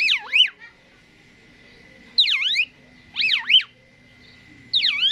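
Asian pied starling (jalak suren) singing: loud, clear whistled phrases made of fast swooping down-and-up glides, repeated four times in a little under two seconds each.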